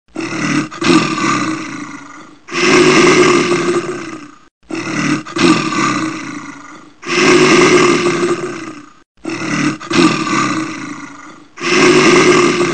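Large animal's roar, one recorded clip repeated in a loop: two different roars alternate, six in all, each about two seconds long with short breaks between them.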